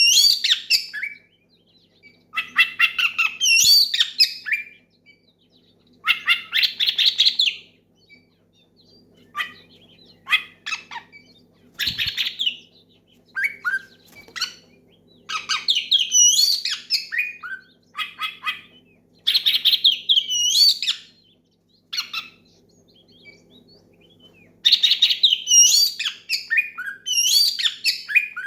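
Oriental magpie-robin (kacer) singing loudly in the rapid 'ngeplong' style: phrases of fast repeated notes and whistled sweeps, each a second or two long, broken by short pauses. It is a challenge song calling out a rival male.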